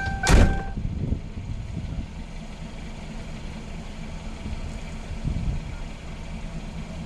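A repeating electronic beeping chime stops right after a loud thump just after the start. Then a vehicle engine idles with a steady low rumble.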